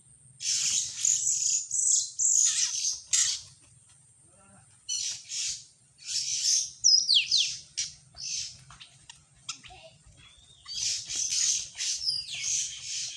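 Small birds calling in loud bursts of harsh chirps, each run lasting a second or two with short pauses between, and a few quick falling notes near the middle.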